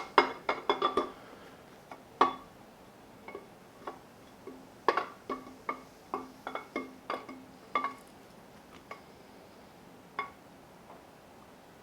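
Metal engine parts and tools clinking and knocking against each other during engine teardown. The strikes are irregular and sharp, with a quick run of them at the start and scattered single clinks until near the end.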